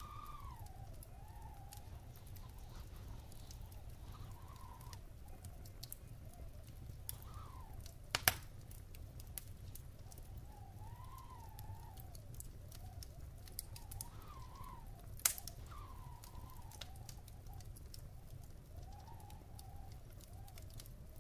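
Wood fire burning in a fireplace, crackling steadily with a low rumble, with two louder pops about eight and fifteen seconds in. A faint wavering whistle rises and falls through the background.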